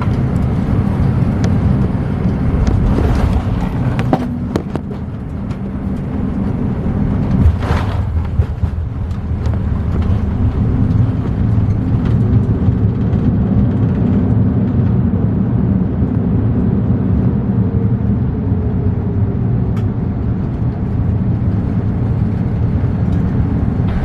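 Steady low rumble inside the cabin of a Boeing 787-9 airliner, with a few sharp knocks about 3, 4 and 8 seconds in.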